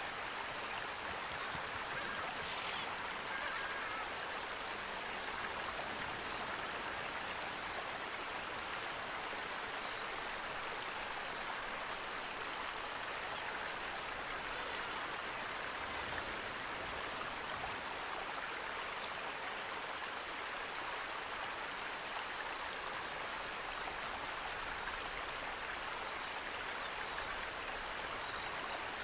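Steady rush of flowing water from a stream or small waterfall, with a few faint high chirps.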